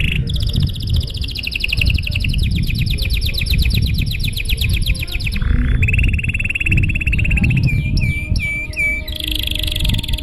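Domestic canary singing a long, continuous song: a rapid trill of repeated high notes lasting about five seconds, then a lower trill, a quick run of falling notes, and another trill near the end. A steady low rumble sits underneath.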